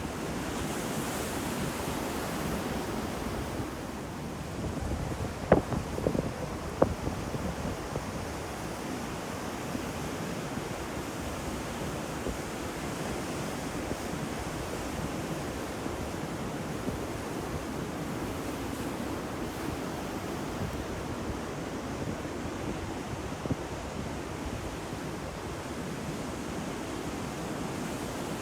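Ocean surf washing ashore in a steady rush, with wind on the microphone. A few short sharp cracks sound around five to seven seconds in.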